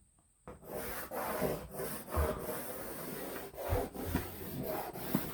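Pencil scratching as a long layout line is drawn, a continuous scratchy rubbing that starts about half a second in, with a couple of light knocks along the way.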